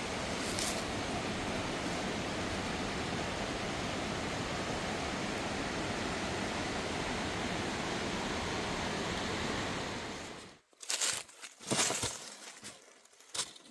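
Steady rush of a mountain waterfall and water running over rocks, which cuts off suddenly about ten seconds in. A few short crackling, rustling sounds follow near the end.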